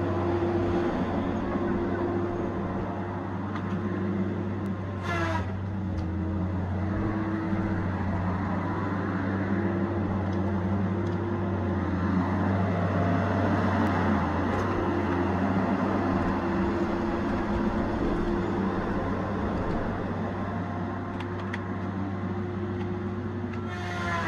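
Tigercat 870C feller buncher's diesel engine running steadily under working load, with a falling whine about five seconds in and again near the end.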